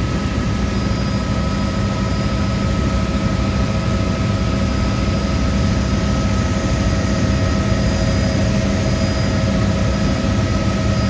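Helicopter running: a steady, loud engine and rotor drone with constant whining tones, unchanging throughout.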